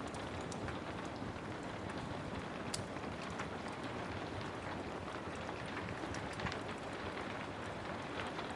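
Steady rain with a wood fire crackling, its scattered sharp pops standing out over the rain.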